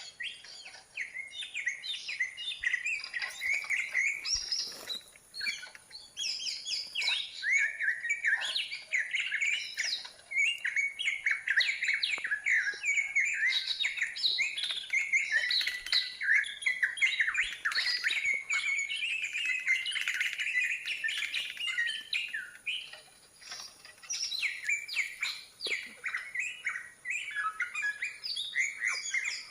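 Green leafbird song: a rapid, unbroken stream of varied chirps and whistles, under a faint steady high-pitched whine.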